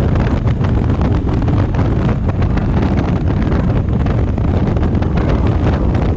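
Wind rushing and buffeting over the microphone of a motorcycle at riding speed: a loud, steady roar with fast flutter.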